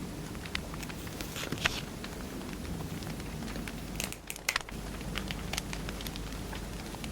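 Wood fire crackling, with scattered sharp pops over a steady low rumble and a quick cluster of louder pops about four seconds in.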